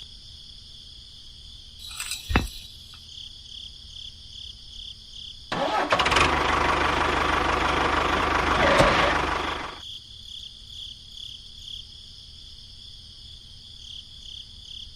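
Crickets chirping steadily. A single knock comes about two seconds in. About five seconds in, a loud rushing, engine-like noise starts abruptly, runs for about four seconds, then cuts off.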